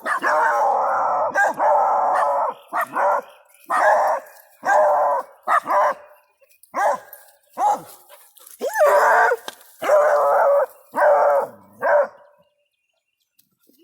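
Hound dogs baying: a long howl at the start, then a string of short barks and bays, falling quiet about a second before the end.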